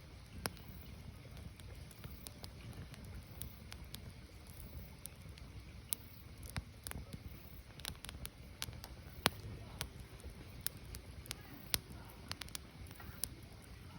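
Firewood burning: irregular sharp pops and crackles over a steady low rumble, with a few louder snaps in the second half.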